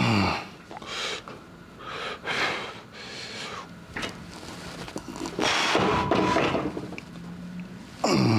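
A man breathing hard, with forceful hissing exhales about once a second, some drawn out longer. A falling voiced groan comes at the start and again near the end.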